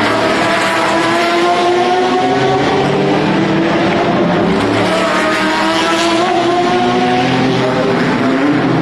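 Race car engines accelerating on track, their pitch climbing steadily, dropping about four seconds in and climbing again.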